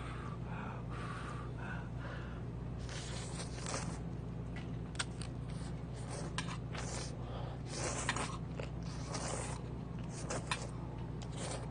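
A person eating noodle soup: irregular slurps and chewing with small clicks, over a steady low hum.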